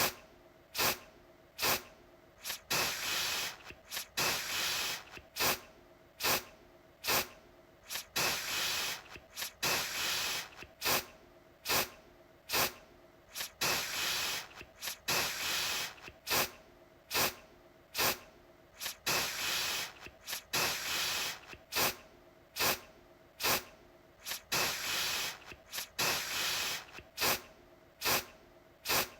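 Aerosol deodorant can spraying in a run of short hissing bursts, about one a second. Some are brief puffs and some are longer sprays of up to a second.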